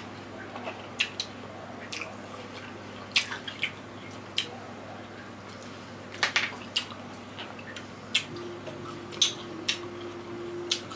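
Close-up wet chewing and lip-smacking of juicy mandarin orange segments, irregular sharp smacks and clicks from two people eating. A faint steady hum comes in near the end.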